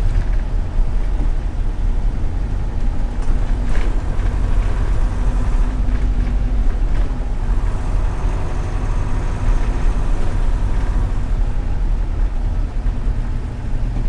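Mercedes-Benz 608D truck's diesel engine and road noise while driving, a steady low rumble.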